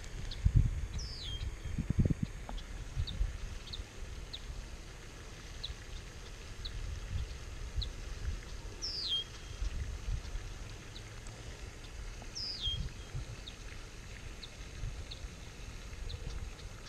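Birds calling: a short high chirp repeated about once a second, and a falling whistled call three times. Low rumbling thumps of handling noise on the microphone in the first couple of seconds.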